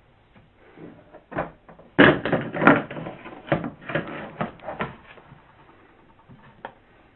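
A quick run of knocks, clatters and rustles as objects are handled and bumped, loudest about two seconds in and dying away after about five seconds.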